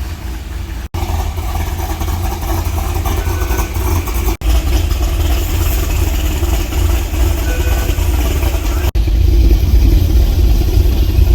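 Car driving slowly, a steady low engine and road rumble with hiss, broken by three brief dropouts where clips are joined and a little louder near the end.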